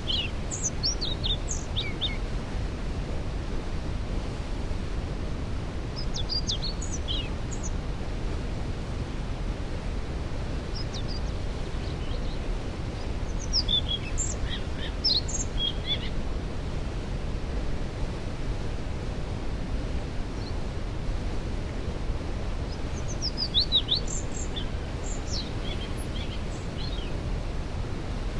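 Steady rush of a waterfall, with songbirds singing short high phrases about five times over it.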